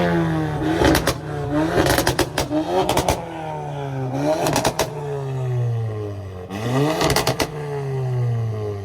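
A car engine revving up and falling back about five times, with short sharp crackles near the top of several of the revs.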